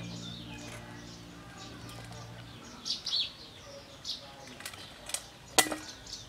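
Small birds chirping in quick, repeated downward-sweeping calls, with a few sharp clicks of metal tongs against a wire grill rack in the second half, the sharpest about half a second before the end. Background music fades out over the first couple of seconds.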